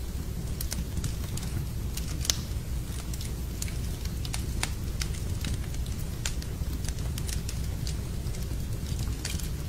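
Wood fire burning in a fireplace, crackling with irregular sharp pops over a steady low rumble; one louder pop about two seconds in.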